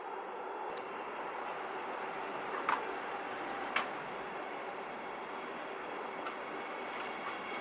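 Vande Bharat Express train running: a steady, even rumbling hiss, with two sharp clinks about a second apart a few seconds in.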